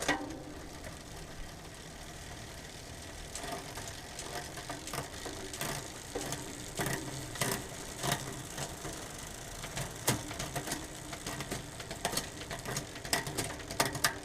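Drivetrain of a road bike with a 10-speed Shimano Ultegra groupset running as the pedals are turned by hand. From about three seconds in come irregular clicks as the chain is shifted across the rear sprockets, testing the rear derailleur's indexing after a cable-tension adjustment; the shifts are a tiny bit hesitant going up.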